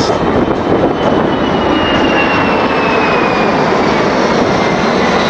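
Boeing C-17 Globemaster III flying low, its four Pratt & Whitney F117 turbofans giving a loud, steady jet noise with a high whine that slowly falls in pitch.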